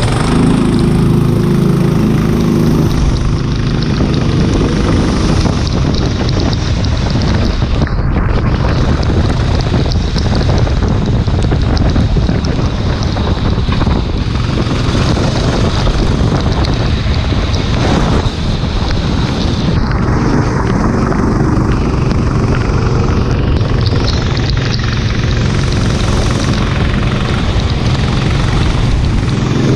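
Go-kart engine running hard on track, with heavy wind noise on the microphone; its pitch shifts in the first seconds and again near the end as the kart changes speed.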